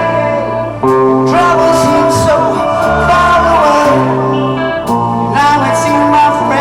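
Hard rock band playing live: distorted electric guitar over held bass notes, with a singing voice.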